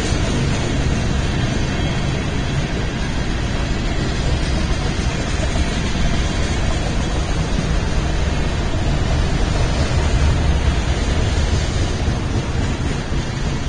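BNSF freight train cars rolling past, a steady, loud noise of wheels on rails.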